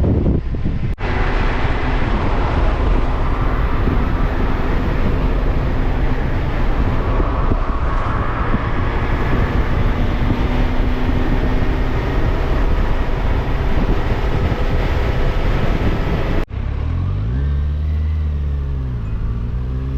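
Motorcycle on the move at speed: a steady engine hum buried in heavy wind and road noise. Near the end, after a cut, the engine is heard more clearly, its pitch rising and falling as it revs and eases off.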